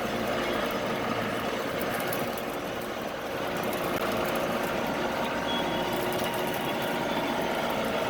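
A tractor engine running steadily at a constant speed.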